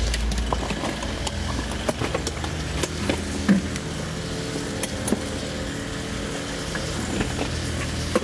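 Car engine idling at the curb, with scattered knocks and clicks of luggage being lifted out of the trunk.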